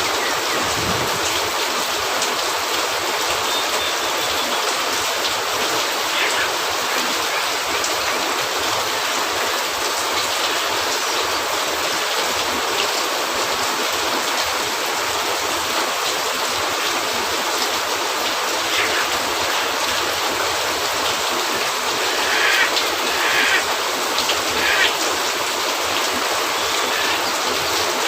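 Steady rain, a dense even hiss, with a few short crackles or pops, most of them near the end.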